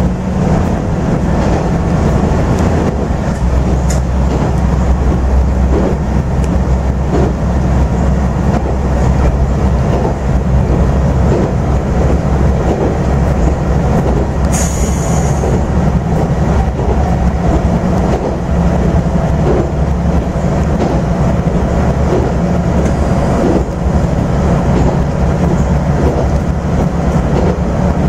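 AN8800 diesel railcar running at speed, heard from inside the passenger cabin: a steady low engine drone over the rumble of wheels on the rails, with faint regular rail-joint clicks. A brief high-pitched sound comes about halfway through.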